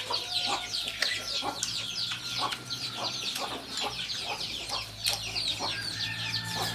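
A flock of farmyard chickens clucking, with a dense stream of short, high chirps throughout.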